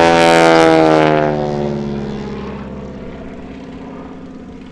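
Super Stearman biplane's 450-horsepower radial engine and propeller passing close by: loud at first, then the pitch drops and the sound fades away over the next couple of seconds.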